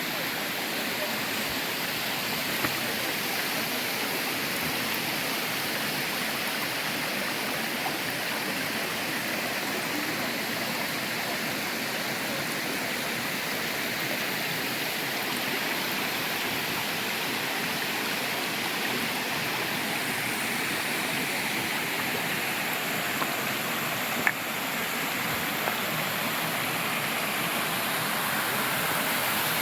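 Steady rush of water pouring over a creek waterfall.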